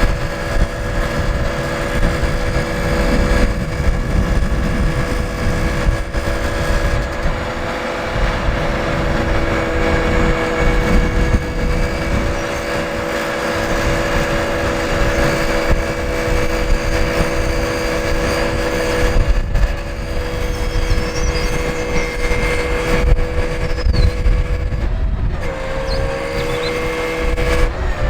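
Scania R580 truck's V8 diesel engine running steadily with a constant whine over its rumble; the pitch dips and recovers briefly twice near the end.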